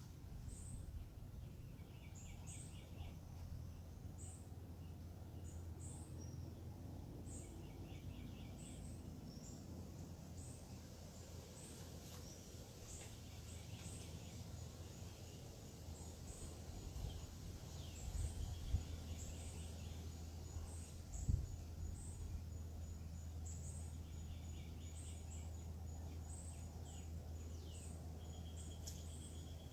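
Outdoor backyard ambience: several birds chirping with short high calls and a few brief trills, over a steady low rumble. Two short thumps come about 18 and 21 seconds in.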